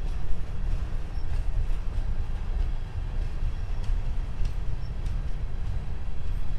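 Empty CSX grain freight train rolling past: a steady low rumble with a few faint, sharp clicks from the wheels.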